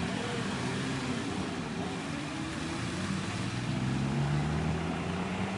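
Off-road 4x4 vehicle's engine revving under load, its pitch wavering and then climbing over the second half.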